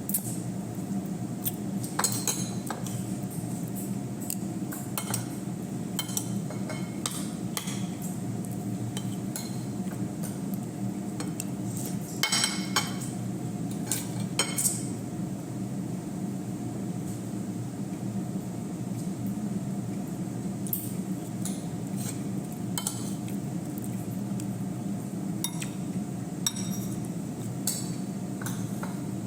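Eating utensils clinking against dishware in scattered, short clinks while a meal of fish head soup is eaten, over a steady low hum.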